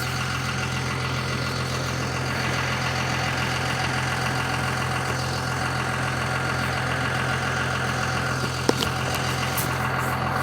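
A vehicle engine idling steadily, a constant low hum, with one brief click near the end.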